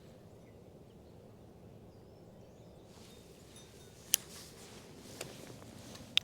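Quiet outdoor background with a few faint bird chirps, then two sharp clicks, one about four seconds in and another near the end.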